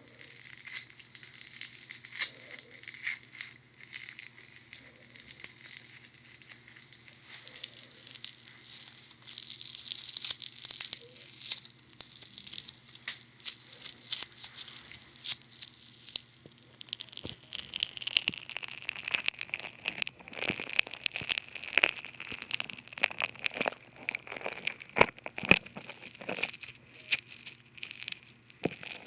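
Funny foam squished and rubbed on the ears of a binaural dummy head, giving close, fizzy crackling and popping. The crackling grows busier and sharper about halfway through.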